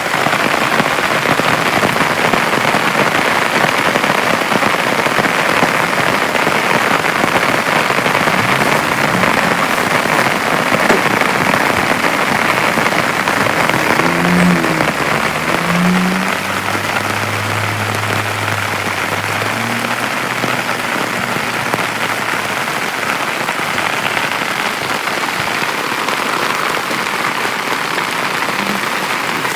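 Heavy rain falling steadily on a small tent, a dense, even hiss. There is a faint low hum about halfway through.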